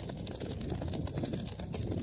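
Wood fire crackling in a fireplace: many small sharp pops and snaps over a steady low rumble of burning.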